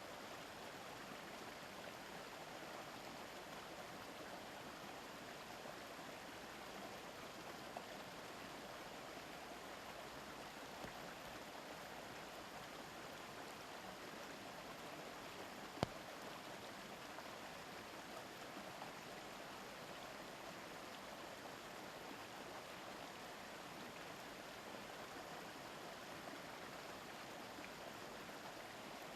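Shallow river murmuring steadily over stones, with one sharp click about halfway through.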